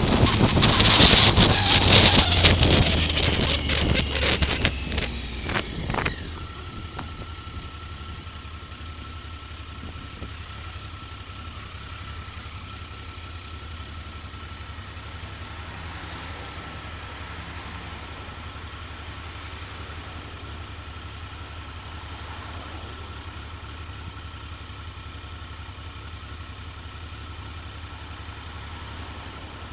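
Wind noise buffeting the camera's built-in microphone, dying away over the first six seconds as the motorcycle slows, then the Triumph Sprint ST 955i's three-cylinder engine idling steadily with a low hum and a faint steady whine.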